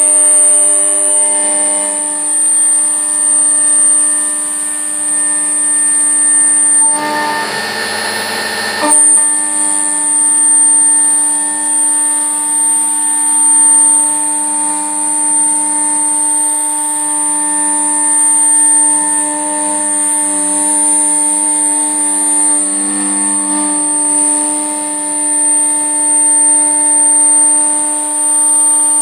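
Mazak Impulse CNC milling machine running while machining 385 brass plate: a steady machine hum of several even tones with a high whistle above it. About seven seconds in, a rough noisy stretch of some two seconds breaks in and the whistle drops out, then the steady running resumes.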